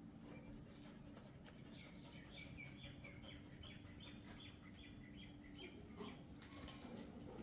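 Faint bird chirping: a quick run of short, high chirps, about three a second, that starts about two seconds in and stops about five seconds in, over a quiet background with a faint steady low hum.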